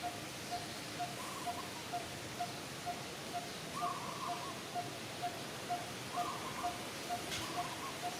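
Birds calling: one repeats a short low note evenly about twice a second, while another gives a brief higher call every two seconds or so. A single sharp click comes about seven seconds in.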